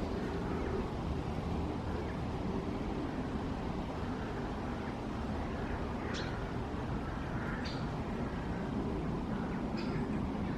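Woodland ambience during a silent pause: a steady low background rumble, with a few short bird chirps about six, seven and a half, and ten seconds in.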